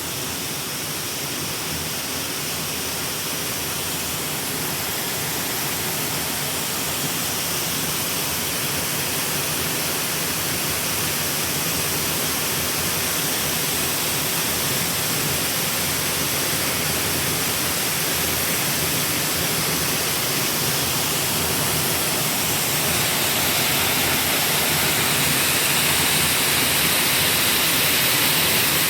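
Waterfall: falling water making a steady, even rush that grows slowly louder over the stretch.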